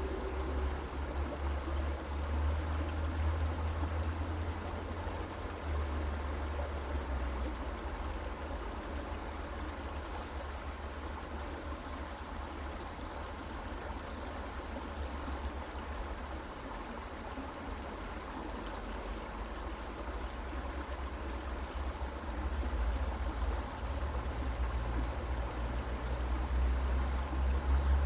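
Creek water flowing and babbling steadily, with a low rumble underneath that swells and eases.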